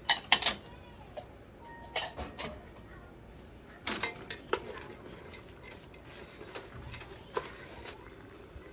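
A cooking utensil knocking and scraping against a large soup pot in a series of sharp clanks, as vegetables are stirred in melted butter.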